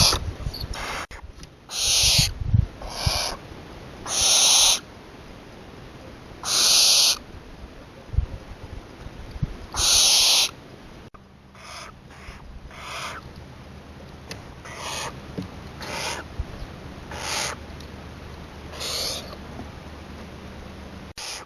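Barn owl giving a string of harsh, breathy hissing screeches, each about half a second to a second long, with gaps of one to three seconds. The calls are louder during the first half and turn fainter and closer together after about eleven seconds.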